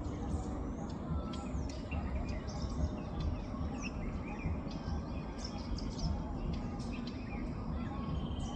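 Several small birds chirping, with many brief chirps and quick falling whistles scattered throughout, over a steady low rumble.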